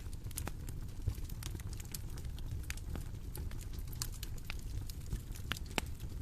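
Bonfire crackling: irregular sharp pops and snaps of burning wood over a steady low rumble of the flames.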